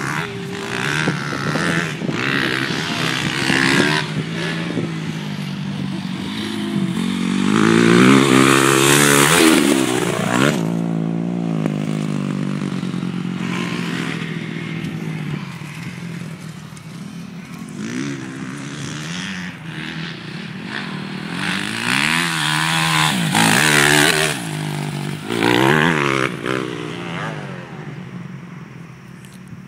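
Motocross bikes running on a dirt track, their engines revving up and down as they accelerate and pass. The loudest pass comes about eight to ten seconds in, and another cluster comes around twenty-two to twenty-six seconds; the sound fades near the end.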